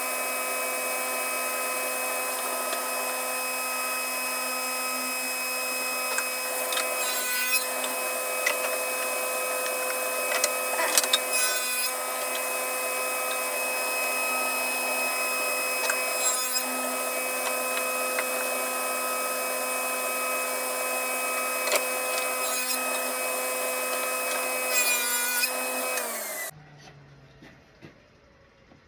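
Table saw running at a steady whine, with several short cuts into wood as it nibbles a shelf groove 1/8 inch at a time. Near the end the saw is switched off and its pitch falls as the blade winds down.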